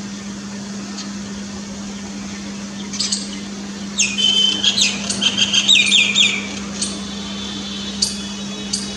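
Myna calling: scattered sharp chirps, with a busy run of whistles and chatter about four to six and a half seconds in, over a steady low hum.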